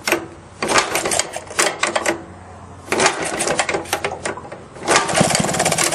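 Maytag Model 31 single-cylinder two-stroke engine being kick-started: it fires in two short bursts of rapid popping that die out, then catches about five seconds in and keeps running with a fast steady pop.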